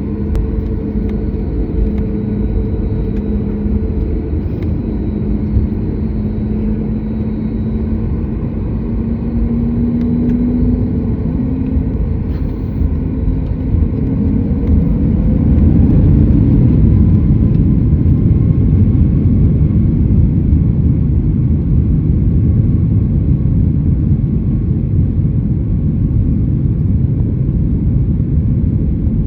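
Cabin sound of a Boeing 737 MAX 8's CFM LEAP-1B engines at departure: a steady rumble with a humming tone that climbs slightly in pitch. About fifteen seconds in it grows louder and fuller as the engines spool up for the takeoff roll.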